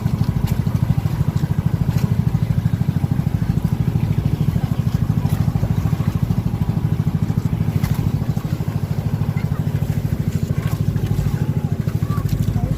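A small engine running at a steady speed, its rapid, even firing pulses the loudest sound throughout.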